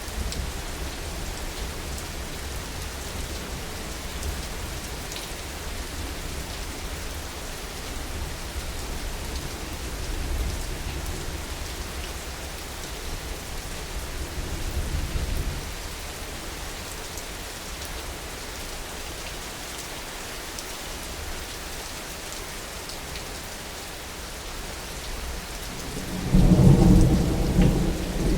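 Steady heavy rain with low, rolling thunder underneath. A loud thunderclap breaks about two seconds before the end.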